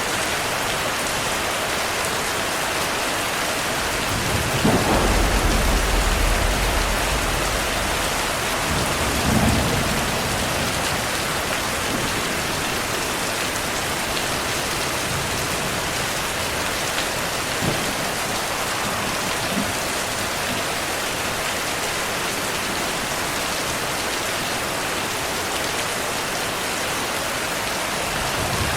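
Steady heavy rain falling, with a deep roll of thunder rumbling up about four seconds in and a shorter second rumble a few seconds later.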